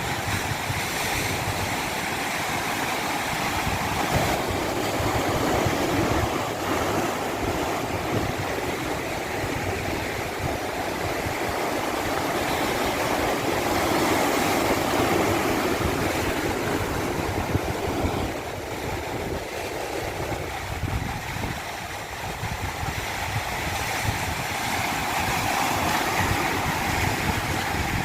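Steady rushing water, swelling and easing slowly every several seconds.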